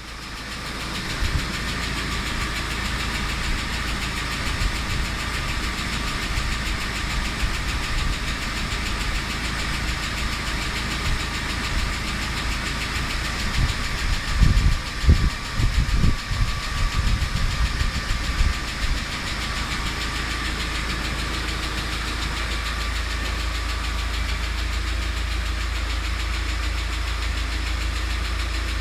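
UAZ Patriot engine idling steadily with a ticking knock from its hydraulic valve lifters. A run of louder low thumps comes about halfway through.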